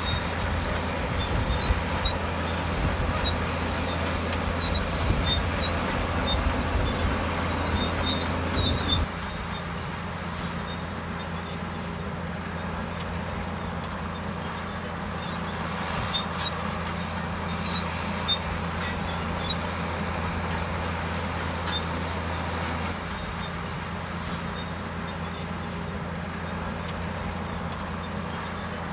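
Komatsu D65EX bulldozer's diesel engine running steadily with a low drone and faint scattered clinks. The sound drops abruptly in level about a third of the way in and again late on.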